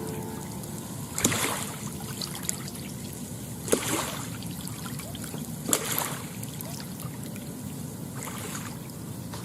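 Small waves lapping at a lake shore: a steady wash of water with a splash about every two to three seconds, four in all.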